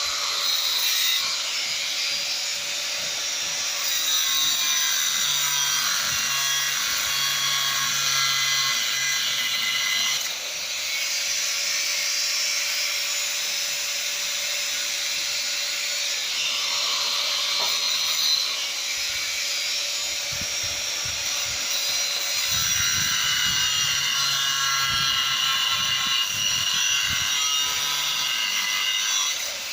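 Motorised aluminium garage door running, its opener motor and the moving door making a steady mechanical noise that shifts about ten seconds in.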